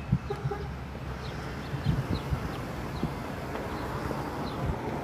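Faint, short, high bird chirps repeating about once a second over steady outdoor background noise, with a few soft knocks about two seconds in.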